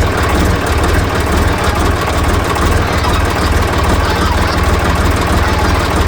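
Ditch Witch trencher-backhoe's air-cooled three-cylinder Deutz diesel idling steadily, with a deep even hum and rapid pulsing.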